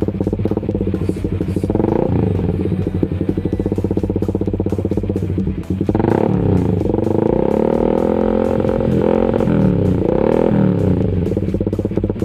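Suzuki GSX-R150's single-cylinder four-stroke engine running through an aftermarket exhaust, idling and revved several times: the pitch sweeps up about two seconds in, then rises and falls repeatedly from about six seconds on.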